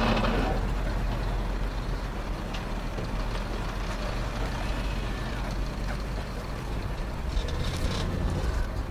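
Audi RS6 Avant's twin-turbo V8 idling steadily with a deep, low hum, growing a little louder near the end.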